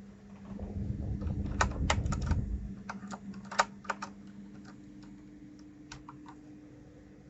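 Keys of a 1st Player DK 5.0 mechanical keyboard clacking in irregular sharp clicks, about a dozen, most of them in the first four seconds. A low rumble sits under the first clicks, from about half a second in to nearly three seconds.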